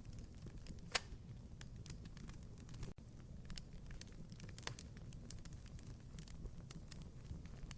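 Wood fire crackling in a fireplace: irregular sharp pops and ticks over a low steady rumble, with a louder pop about a second in and another a little before five seconds.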